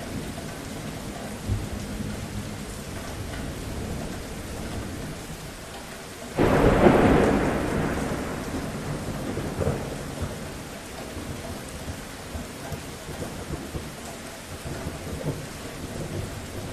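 Steady rain falling, with a sudden clap of thunder about six seconds in that rumbles off over the next few seconds.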